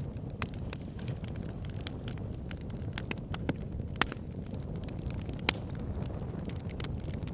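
Wood fire burning in a fireplace: a steady low rush of flames with irregular crackles and snaps from the burning logs, two sharper pops standing out about four and five and a half seconds in.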